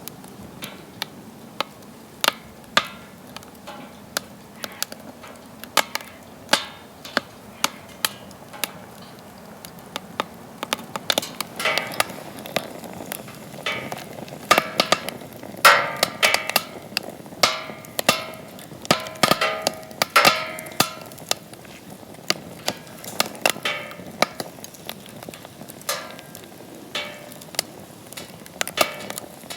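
Firewood burning in a metal fire pit, crackling with frequent sharp pops and snaps. Through the middle stretch the pops come thicker, with short squealing, whistling tones among them.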